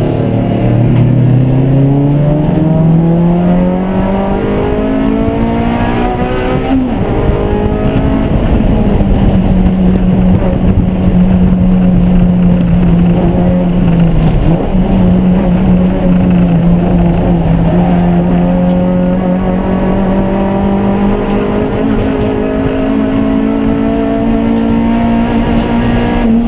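Race car engine under load on track: the revs climb over the first few seconds, drop sharply about seven seconds in, then hold high and steady for the rest, with a brief dip midway.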